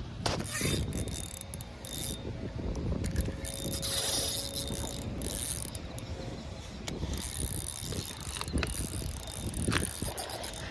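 Spinning fishing reel being cranked, its gears ticking in a steady run as the lure is retrieved, with a few sharper clicks along the way.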